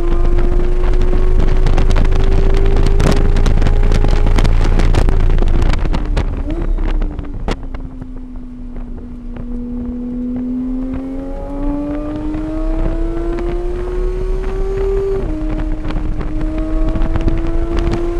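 Vehicle engine heard onboard while lapping a race track. It pulls under load with its pitch slowly climbing, then backs off with a drop in pitch and loudness about seven seconds in. It builds again and steps down in pitch with an upshift a few seconds before the end, while wind buffets the microphone.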